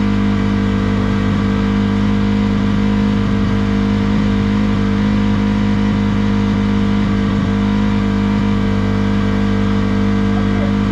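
A motor vehicle engine running at a constant speed, a steady hum with no rise or fall in pitch.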